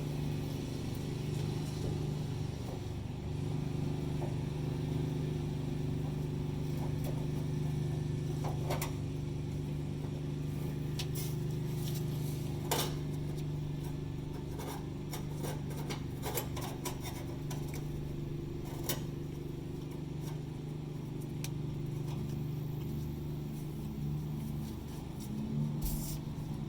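Scattered light clicks and taps of fuel pump parts being handled and fitted, over a steady low mechanical hum.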